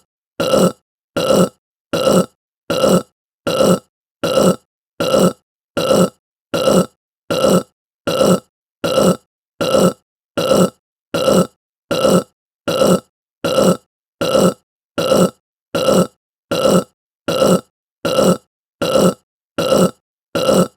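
Human burp sound effect: a short burp repeated over and over at an even pace, about four every three seconds, each one alike.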